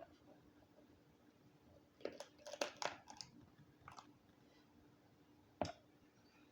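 Close-up eating of boiled Dungeness crab: a cluster of crunching and chewing about two seconds in, a smaller crunch near four seconds, and one sharp crack of shell near the end.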